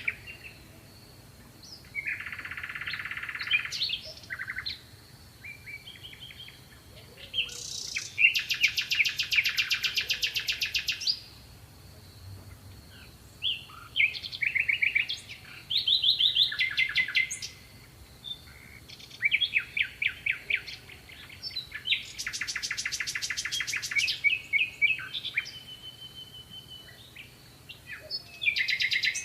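Songbirds singing in phrases of rapid trills and chirps, each lasting a second or three, with short pauses between. A faint steady high-pitched tone runs underneath.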